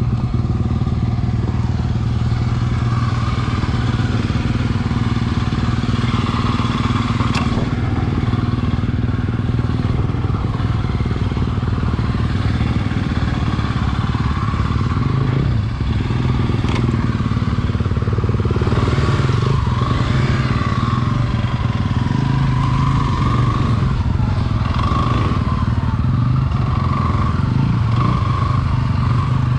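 Dirt bike engine running steadily, its pitch shifting a little with the throttle.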